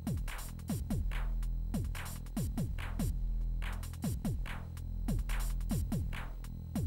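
Electronic soundtrack of an Amiga 64k demoscene intro, played on an Amiga 1200. Drum-machine-style kicks drop sharply in pitch, about two a second, with snare-like hits between them over a held bass line.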